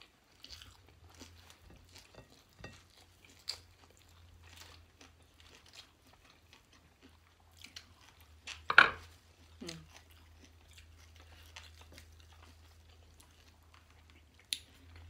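Close-miked chewing and crunching of food, with small wet clicks and smacks of eating by hand. One sharp crunch or smack about nine seconds in is the loudest sound. A low steady hum runs underneath.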